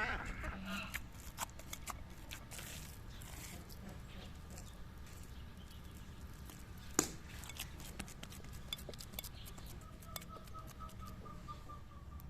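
Soft squishing and small scattered clicks of minced beef being mixed by hand, with one sharper click about seven seconds in. A duck quacks briefly at the very start, and a faint drawn-out animal call comes near the end.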